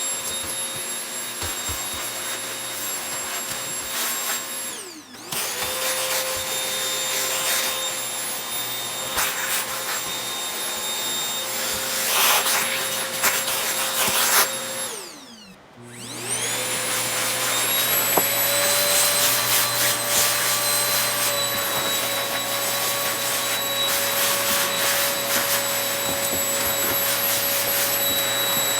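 Vacuum cleaner running with a steady motor whine and rushing suction, switched off and straight back on twice, the pitch falling as it winds down and rising as it spins up. Short rattles and clicks come through the suction, loudest about two thirds of the way through the first run.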